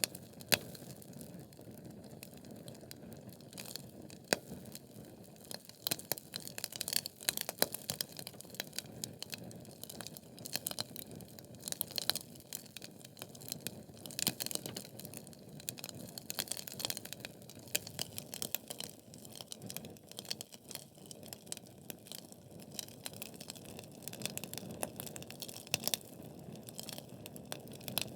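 Logs burning in a fireplace: a steady soft hiss of the fire, broken by many irregular sharp crackles and pops from the wood, which come in denser clusters now and then.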